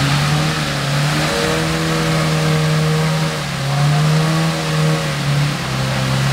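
Off-road vehicle engine held at high revs under load. The pitch holds steady, dips briefly about halfway through, climbs again, then eases off near the end.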